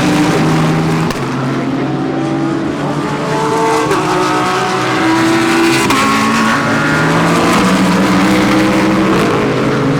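Several GT3 race cars running through a corner close together, their engines overlapping and rising and falling in pitch through gear changes.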